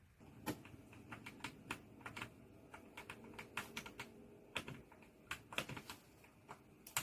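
Keys of an ASUS ROG Falchion Ace HFX magnetic-switch gaming keyboard being typed on: irregular, quick key clicks, several a second, starting about half a second in.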